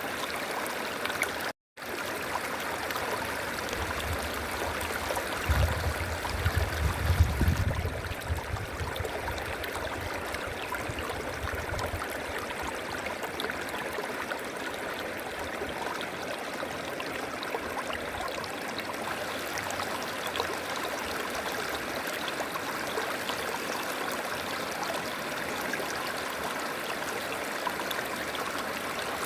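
River water flowing steadily, an even rushing noise. A low rumble swells for several seconds a few seconds in, and the sound cuts out for a split second near the start.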